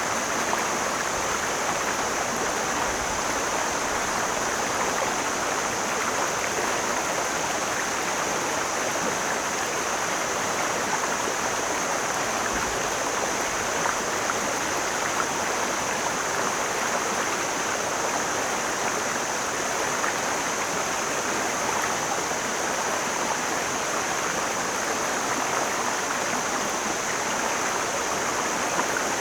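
Mountain stream flowing over rocks: a steady, even rush of water with no breaks, along with a faint constant high hiss.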